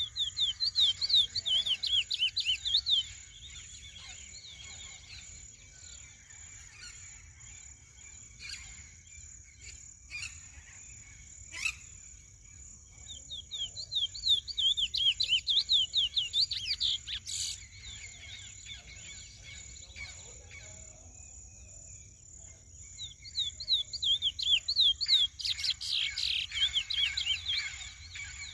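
A young male curió (chestnut-bellied seed finch) in its first molt singing in three bouts of rapid, repeated short sliding notes, near the start, in the middle and near the end. A steady high-pitched hum runs beneath, with a few sharp clicks between the bouts.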